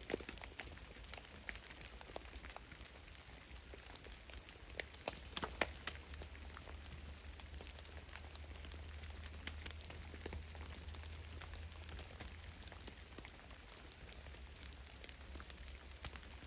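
Meltwater drops falling from melting snow in a forest, pattering irregularly, with a small cluster of louder drops about five seconds in, over a faint low rumble.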